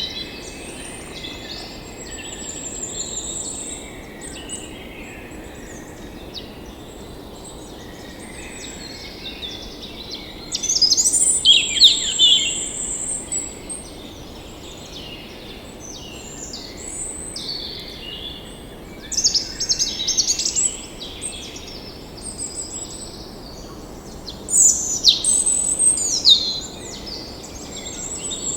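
Several songbirds singing and chirping in overlapping short phrases and high trills, with louder bursts of song roughly a third of the way in, two-thirds in and near the end, over a steady low background hiss.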